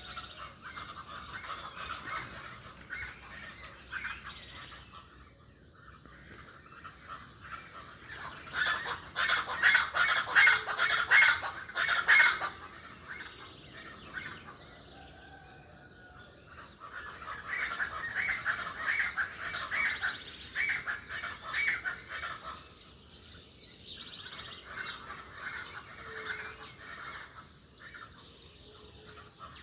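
A dense chorus of wild birds chirping and squawking, with busy chattering calls throughout and the loudest, harsh calls in a burst from about 9 to 12 seconds in.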